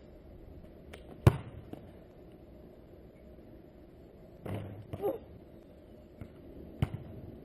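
A few sharp knocks or thumps: the loudest a little over a second in and another near the end, with a brief scuffle and a short pitched squeak about five seconds in.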